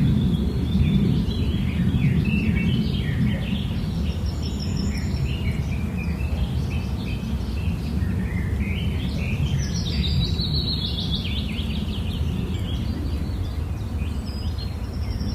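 Rapid, short bird chirps, with a busier rising run of them about two-thirds of the way in, over a steady low rumble.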